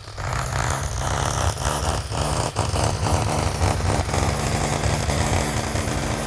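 A heavy machine's engine running loud and steady, swelling up at the start, with repeated clanks and knocks over it.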